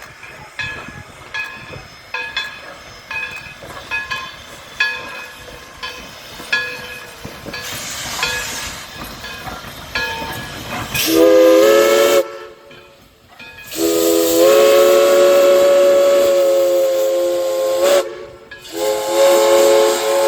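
Steam locomotive's chime whistle sounding several notes at once: a short blast, a long blast of about four seconds, then another blast near the end, with hissing steam. Before the whistle, regular metallic ringing strikes, under a second apart, run for about the first ten seconds.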